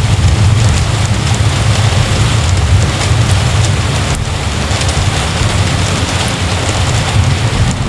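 Heavy rain pouring steadily, with a deep low rumble underneath and a brief break about four seconds in.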